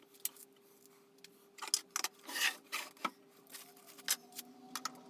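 Small metal parts of a bandsaw being handled and fitted by hand: a run of light clicks and knocks with a brief scrape about two and a half seconds in, over a faint steady hum.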